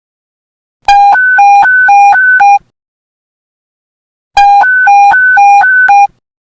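Police panic-button alert tone: an electronic two-tone beep alternating quickly between a low and a high pitch, about two low-high cycles a second. It sounds in two bursts of under two seconds each, with a gap of under two seconds between them.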